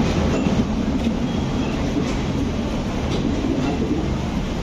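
Passenger coaches of a departing train rolling past, a steady low rumble with occasional clicks of wheels over rail joints.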